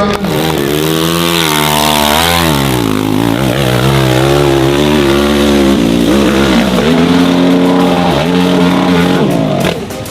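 Dirt bike engine revving hard, its pitch repeatedly climbing and falling off as the throttle is worked.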